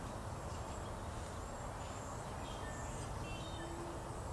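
Faint steady background hiss of ambient room or outdoor noise, with a few faint, brief high chirps about two to three and a half seconds in.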